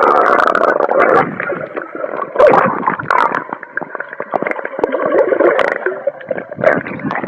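Muffled underwater sound from a submerged camera: gurgling, bubbling water with many crackling clicks, as a swimmer tries to dive down. It drops away suddenly at the very end.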